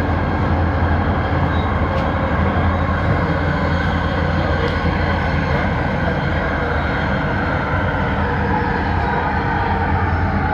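Bombardier Innovia Metro 300 train running in on its linear induction motors: a steady rumble of running noise with a motor tone that begins to fall in pitch near the end as the train slows.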